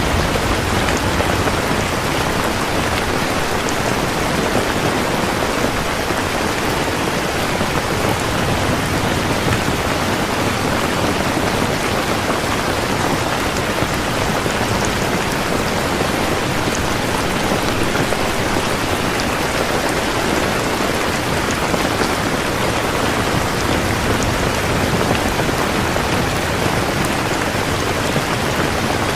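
Steady, heavy rain falling on surfaces, an even dense hiss of drops with no letup.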